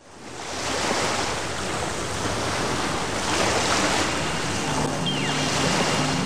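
Sea waves washing in slow surges, fading in at the start. Near the end, music comes in with low held notes and a falling electronic sweep.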